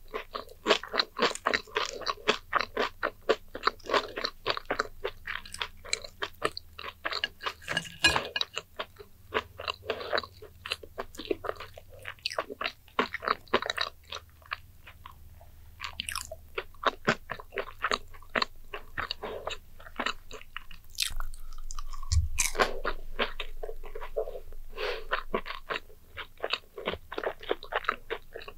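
Close-up crunching and chewing of sugar-coated fried sweet potato slices, sharp crunches coming several a second with a few short pauses. A single dull knock about three-quarters of the way through.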